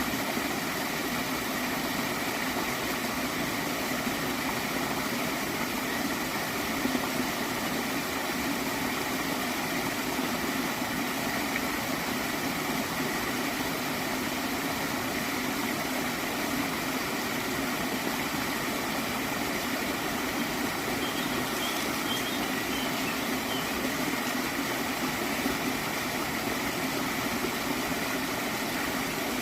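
Water in a small stream flowing and gurgling steadily.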